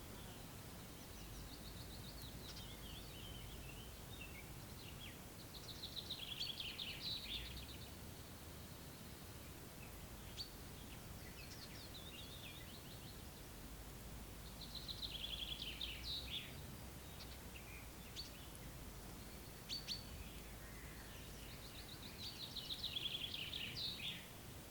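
A songbird singing in the open air: about five trilled phrases of about two seconds each, each falling in pitch, spaced several seconds apart, over a faint steady background hiss.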